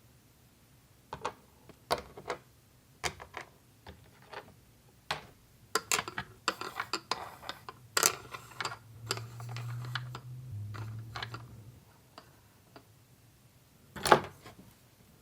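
Small plastic toy kitchen pieces handled: scattered clicks and taps, a low hum lasting about three seconds in the middle, and one louder knock near the end.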